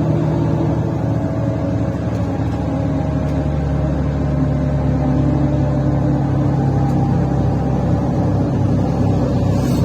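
Diesel engine of a Mercedes-Benz O530 Citaro C1 Ü bus running under way with a defective exhaust, heard from inside the bus as a loud, steady drone.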